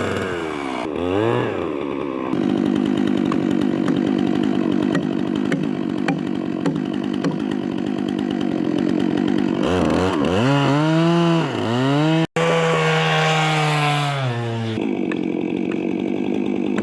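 Chainsaw running at high revs, cutting through a log, with the engine note dropping and climbing back again shortly after the start and several times around ten to twelve seconds in.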